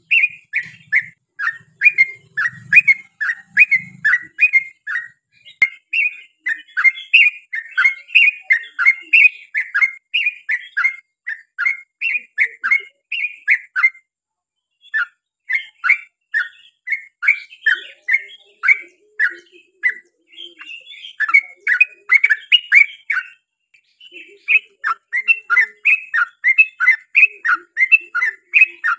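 Yellow-vented bulbul (trucukan) singing a long, rapid run of chirpy notes, about three to four a second, breaking off for about a second halfway through before resuming.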